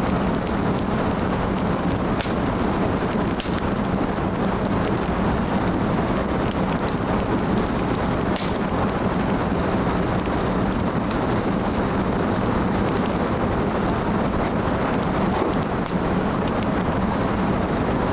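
Firewood burning: a steady rushing noise with scattered crackles and pops, the sharpest about two, three and eight seconds in.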